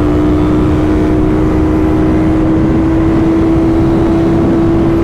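CFMoto 450SS motorcycle's parallel-twin engine running at steady revs under way, its pitch creeping slowly upward, over steady wind and road noise.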